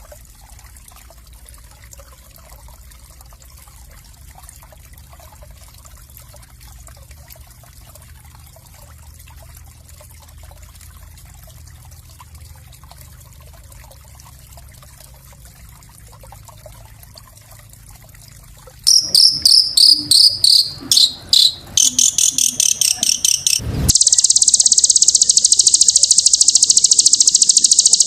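Small songbird's masteran song: after a long faint stretch, a loud string of rapid, high-pitched chirps starts about two-thirds of the way in. About 24 s in it turns into an unbroken, fast, buzzing high trill.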